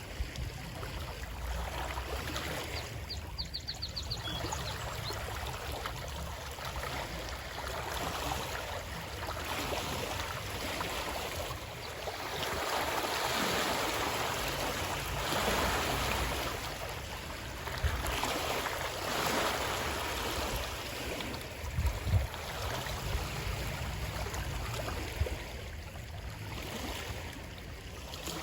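Stream water flowing and splashing without pause, swelling and easing in loudness. A short run of rapid high ticks comes a few seconds in, and there are a couple of brief low knocks later on.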